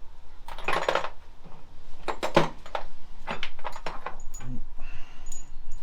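Metal tools and parts clinking and knocking as they are handled, a quick run of sharp clatters through the first four seconds or so.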